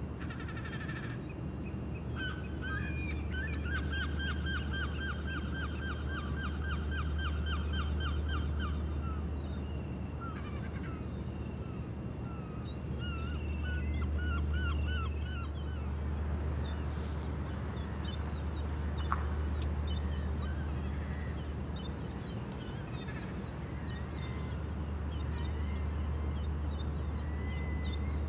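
Birds calling over a steady low hum: a fast run of evenly repeated notes for several seconds, then scattered short chirps and calls.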